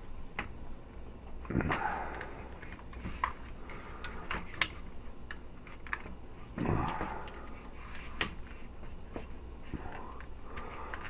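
Irregular small clicks and taps of a toy figure's hard parts being handled and worked apart, with a few brief soft scraping rustles.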